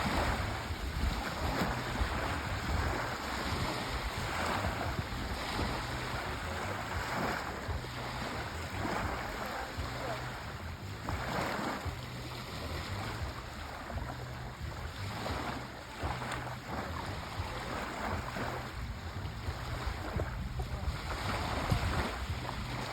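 Sea waves washing in, a steady rushing noise that swells in surges every few seconds, with a low wind rumble on the microphone underneath.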